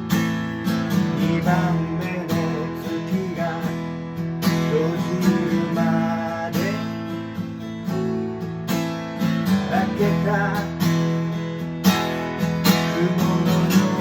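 Acoustic guitar strumming chords in an instrumental passage, with a melody line over them that bends and wavers in pitch.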